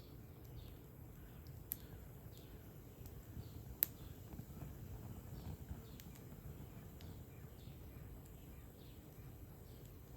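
Campfire burning, with scattered sharp pops and cracks from the wood, the loudest about four seconds in, over a low steady rumble.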